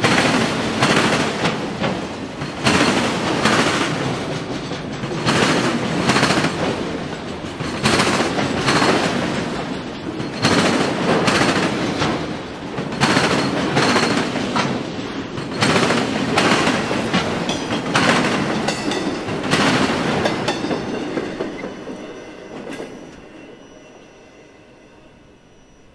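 Freight train's autorack cars rolling across a railroad diamond crossing, the wheels banging over the crossing's rail gaps in loud clattering clusters every two to three seconds. The clatter fades away about twenty seconds in as the end of the train passes and recedes.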